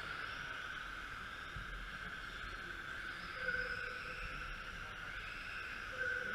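Radio-controlled model trucks racing, their motors making a steady high whine that swells briefly as cars pass, about three and a half seconds in and again near the end.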